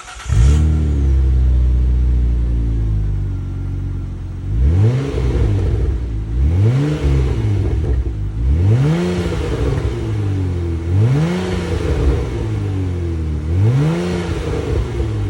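Kia K7 with a custom variable-valve dual exhaust starting up and settling to idle, then blipped five times, each rev rising and falling back to idle.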